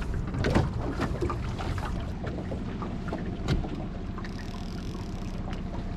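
Boat motor running steadily at trolling speed, with wind on the microphone and a few sharp knocks, one about half a second in and one about three and a half seconds in.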